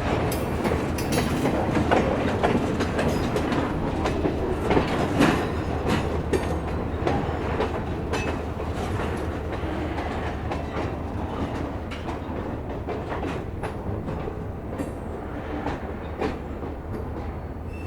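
Escanaba & Lake Superior freight train rolling by, its wheels clicking over rail joints with a steady low rumble, growing gradually quieter toward the end.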